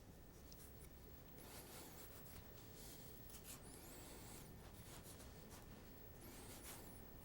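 Faint scraping strokes, about three of them, as the cubes of a scored mango half are cut away from the skin.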